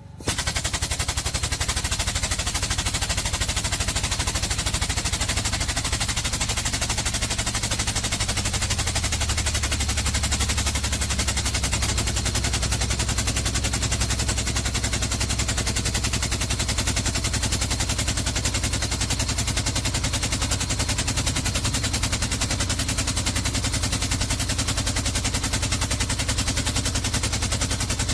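Pneumatic hammering tool running continuously, a loud, rapid, unbroken rattle of impacts on metal, starting suddenly.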